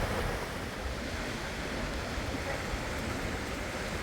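Fast-flowing river water rushing steadily, an even wash of noise with no breaks.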